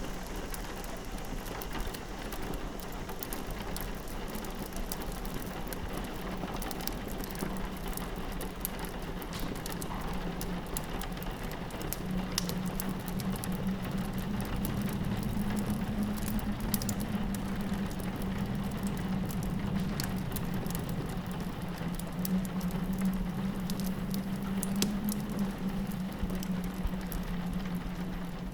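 Rain pattering steadily against a window, mixed with the sparse crackle and pops of a wood fire. Under them runs a low drone that grows louder about twelve seconds in.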